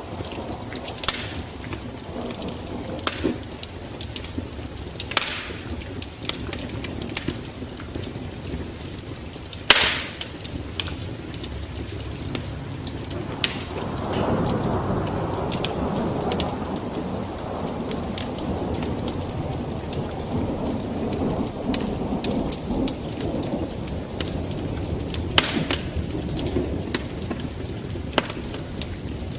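Wood fire crackling, with irregular sharp pops and snaps over a steady low rumble that swells about halfway through.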